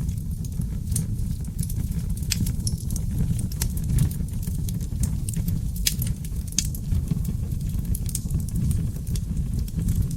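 Seasoned oak logs burning in a fireplace: irregular sharp crackles and pops over a steady low rumble of the flames, with the loudest pops about six seconds in.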